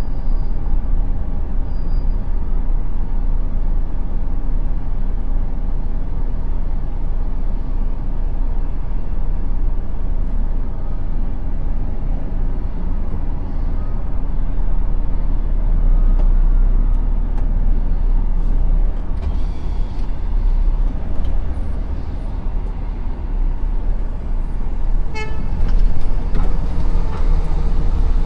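Truck engine running with a steady low rumble, with a short pitched tone near the end.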